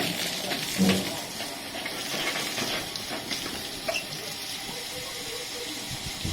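Steady hiss of steam escaping from a standing steam locomotive, with a short knock about a second in.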